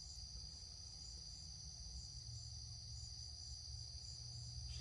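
Insects, likely crickets, trilling steadily: a continuous high-pitched note, faint against a low background hum.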